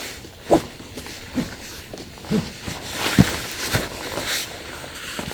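Steady rain falling, with a few irregular dull knocks about a second apart.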